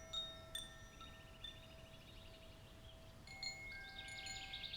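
Faint wind chimes in a meditation background track: a few single notes ring on, then come a quick rippling run of light strikes and a livelier cluster of chiming near the end.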